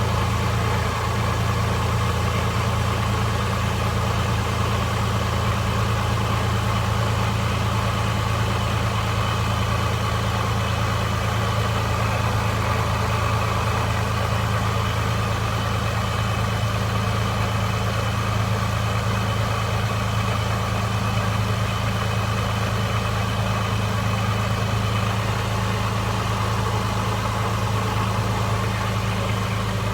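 Supercharged Toyota 3.4-litre V6 idling steadily, a couple of minutes after a cold start.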